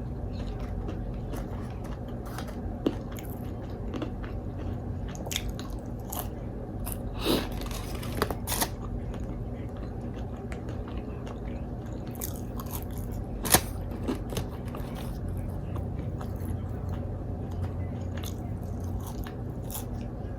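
A person eating Wingstop takeout close to the microphone: steady chewing with repeated bites and sharp crunches, the loudest about 3, 7, 8 and 13 seconds in, over a steady low hum.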